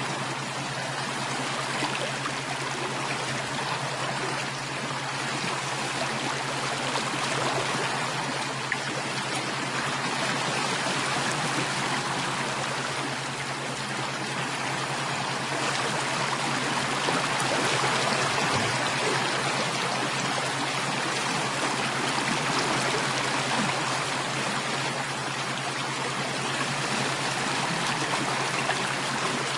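Running water of a stream, a steady, unbroken trickling and rushing.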